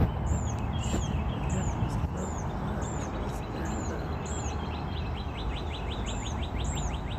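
A bird repeats a short high chirp about every half second, with rapid trains of fine ticking calls lower in pitch, over a steady low outdoor rumble.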